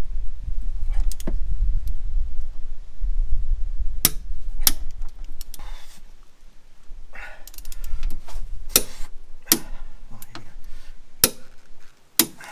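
Hand tools working on the strut's lower mounting bolt: a handful of separate sharp metallic clinks, with low rumbling handling noise in the first few seconds.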